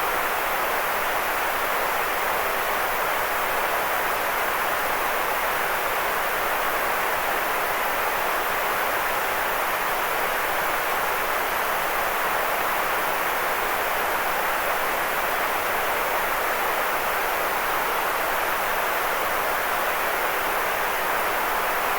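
Steady white noise: an even, unchanging hiss, strongest in the middle range, with little bass.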